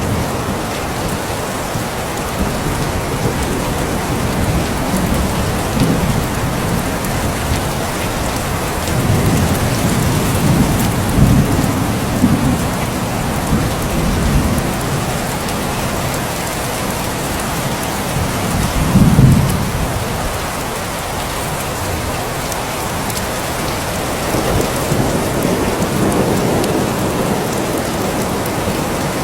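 Steady rain falling, with low thunder rumbles: a long rumble around ten seconds in, a short louder one near twenty seconds, and a softer swell near the end.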